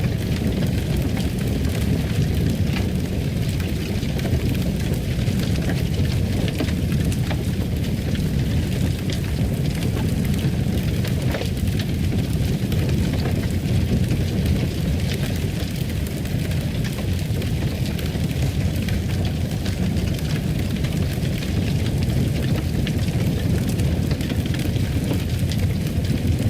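Fireplace fire burning with a steady low rumble and frequent small crackles and pops of burning wood.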